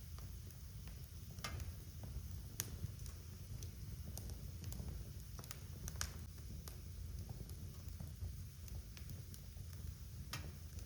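Wood fire crackling, with irregular sharp pops a second or so apart over a steady low rumble of the flames.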